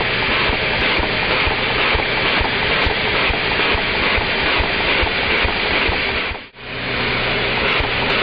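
Lego vacuum engine with a cam-driven overhead valve, running in slow motion: a steady rushing hiss of vacuum suction with regular low knocks, about four a second. The sound drops out briefly about six and a half seconds in, then carries on.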